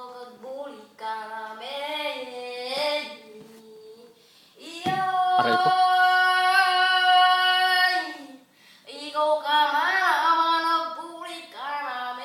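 A high voice singing a melody, with one long held note in the middle.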